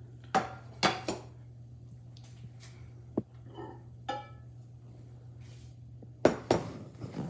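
Dishes clinking and knocking as a bowl of microwaved pasta and a utensil are handled: a few sharp strikes within the first second or so, one near the middle and two close together near the end, over a steady low hum.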